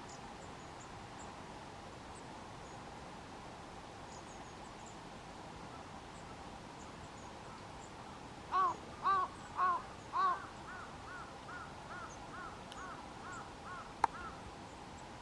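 A crow cawing: four loud, harsh caws about half a second apart, then a quicker run of about ten fainter caws. Faint, thin, high calls of small birds come and go underneath, and there is a single sharp click near the end.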